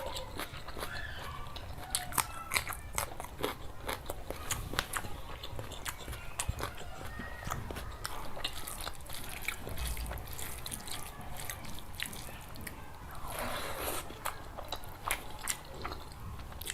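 Close-miked eating: a person chewing and biting mouthfuls of curry and rice, with many quick, irregular wet clicks and smacks. There is a brief longer rustling noise about three-quarters of the way through.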